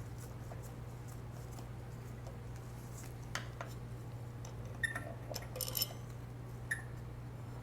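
Light clinks and clicks of small metal and glass parts being handled, a few in the middle and one more near the end, over a steady low hum.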